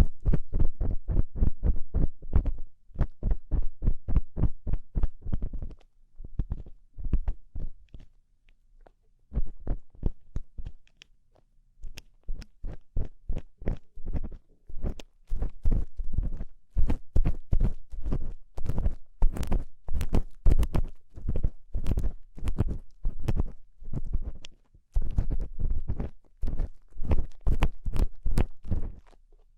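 Close-miked ear-cleaning scratches: an ear-cleaning tool scraping and picking in an ear in quick strokes, about three to four a second, thinning out twice before picking up again.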